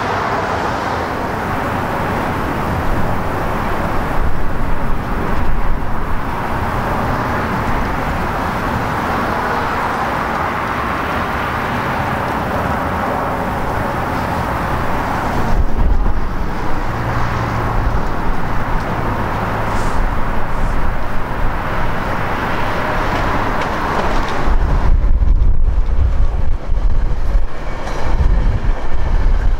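Steady rumble of a passing train, with wind buffeting the microphone in gusts, strongest in the last few seconds.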